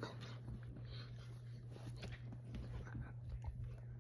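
A Doberman moving about close by: soft rustling, snuffling and scattered small clicks, over a steady low hum.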